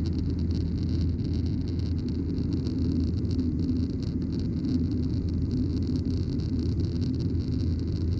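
Steady cabin noise of a Boeing 737-900ER climbing out after takeoff: an even drone of the engines and rushing air, with a strong low hum.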